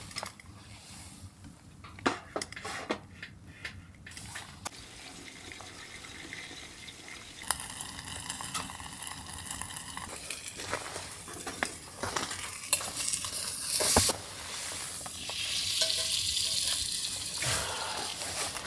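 Food sizzling in a pan, with scattered clinks and scrapes of a utensil against the pan; the sizzle grows louder in the second half.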